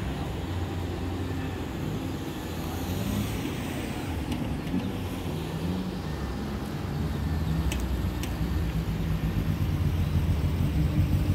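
Small car's engine running at low revs, its pitch stepping up and down a little and getting louder over the last few seconds, with two faint clicks about eight seconds in.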